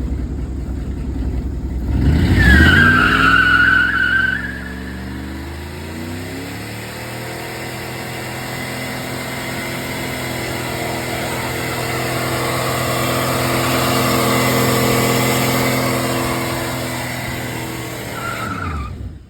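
Turbocharged Dodge pickup's engine pulling hard under full throttle. A loud launch about two seconds in carries a brief high squeal, then the engine pitch climbs steadily for several seconds before it eases off and drops near the end. The crew takes this run to have blown the turbo.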